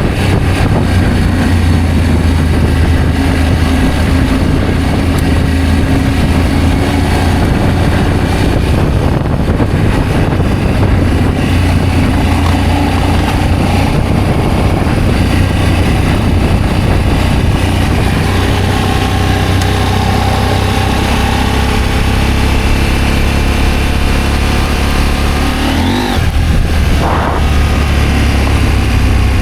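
Adventure motorcycle engine running under way, with a steady low rumble and wind noise on the microphone; the pitch briefly dips and shifts near the end, as at a gear change.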